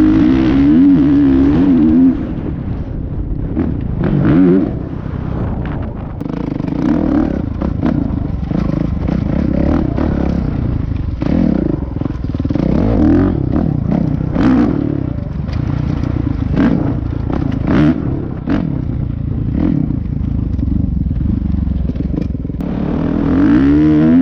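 Dirt bike engine running, its pitch rising and falling unevenly, with scattered scrapes and knocks.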